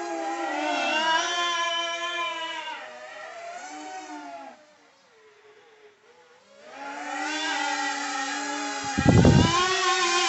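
Small brushed electric motor and propeller of an indoor RC plane whining, its pitch rising and falling with the throttle. It fades down about halfway through and comes back. A short low thump sounds near the end.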